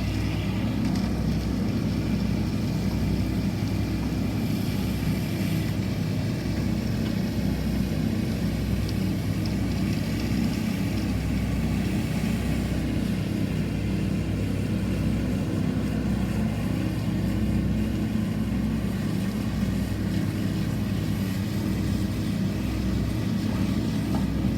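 A steady, low engine drone with no change in pitch or level.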